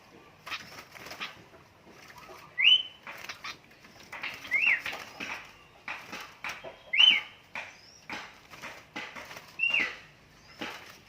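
Caught sooty-headed bulbuls (kutilang) calling: four loud, short whistled notes, each rising then dropping, about every two and a half seconds. Bursts of wing-flapping and rustling come in between.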